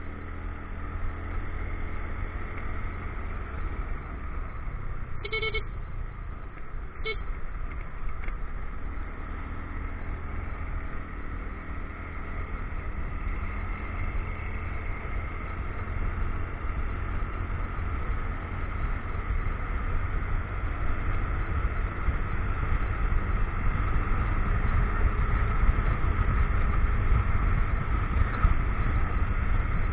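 Motorcycle running on the move, with wind rumbling on the action-camera microphone; it grows gradually louder toward the end. Two short horn beeps sound about five and seven seconds in.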